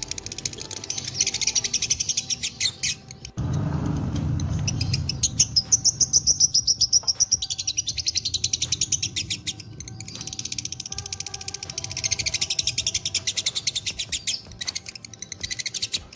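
Lovebirds ngekek: long, rapid chattering trills of shrill notes repeated many times a second, broken by short pauses. About three seconds in, a low rumbling noise starts suddenly and lasts a couple of seconds under the chatter.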